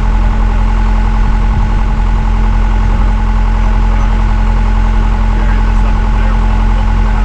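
Backhoe engine running steadily at a constant speed, loud and close.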